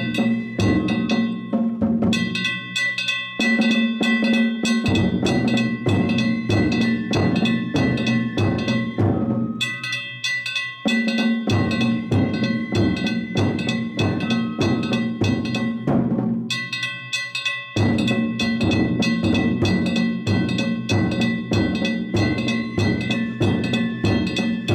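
Danjiri float's narimono ensemble playing a fast, continuous festival rhythm: a big taiko drum with rapid strikes on small drums and ringing hand-struck bronze gongs (kane). The drum drops out briefly twice while the gongs keep ringing.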